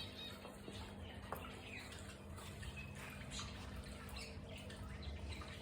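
Small aviary birds chirping in scattered short, often falling notes, over a steady low hum.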